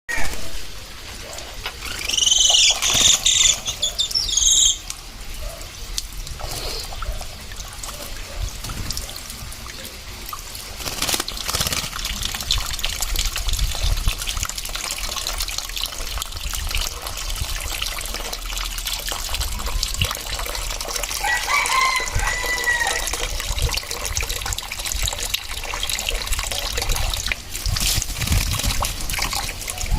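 Hill myna giving loud, shrill whistling calls about two to four seconds in while it is bathed, then running water splashing steadily, with a shorter warbling call from the bird about two-thirds of the way through.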